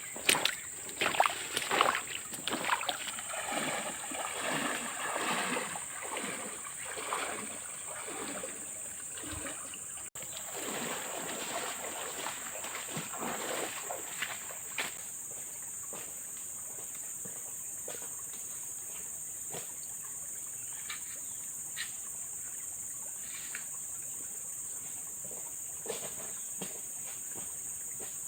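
Water splashing and sloshing in irregular strokes for about the first half, then settling into a few scattered drips and clicks. A steady high-pitched insect drone runs underneath throughout.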